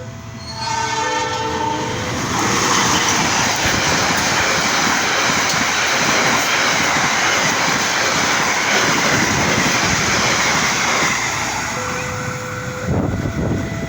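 A train horn sounds briefly about a second in, then a passing train's cars and wheels rush by loudly for about ten seconds. A steady two-tone electronic warning signal is heard at the start and comes back near the end as the train clears.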